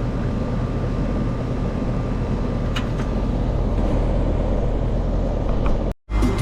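Outdoor air-conditioning condenser unit running: a steady hum and whoosh from the compressor and fan, with a few light clicks about three seconds in. It cuts off suddenly near the end.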